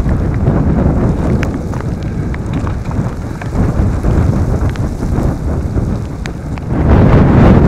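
Strong storm wind buffeting the microphone in a loud, gusty rumble, with scattered sharp ticks of rain striking. The wind surges louder near the end.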